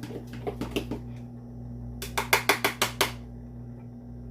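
A utensil clicking against a bowl as pancake batter is stirred, with a quick run of about seven louder taps around two seconds in.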